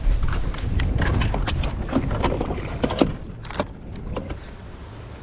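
A bass boat moving over the water, with a heavy low rumble and wind on the microphone, broken by scattered knocks and clicks; the noise drops off about three and a half seconds in.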